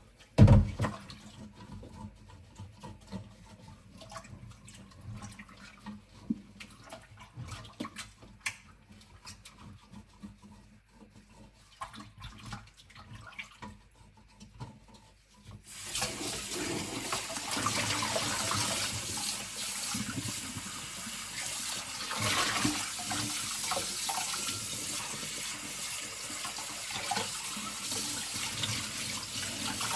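Stainless steel skillet being scrubbed in a kitchen sink: light scattered clicks and knocks, with one loud knock about half a second in. About halfway through, the kitchen tap turns on and water runs steadily as the skillet and pot are rinsed.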